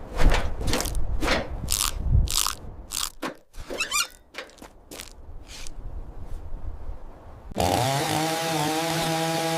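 A run of sharp crunching clicks, about a dozen in irregular succession, then near the end a steady motor-like buzzing drone starts abruptly and holds on one pitch.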